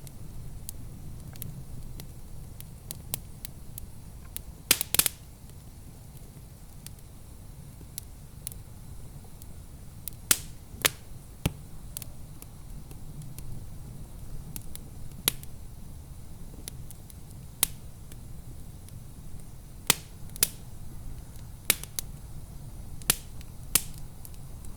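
Wood fire crackling in a fireplace: sharp, irregular pops and snaps, with a quick cluster of them about five seconds in, over a steady low rumble.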